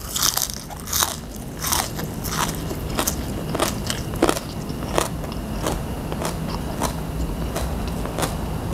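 Close-up chewing of a mouthful of crunchy raw green vegetable: crisp crunches in a steady rhythm, about one every two-thirds of a second, a little louder in the first two seconds.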